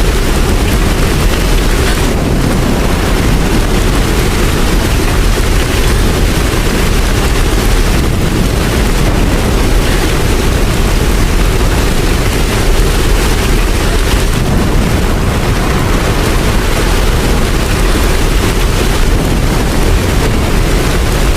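Steady rain with a deep, even rumble underneath.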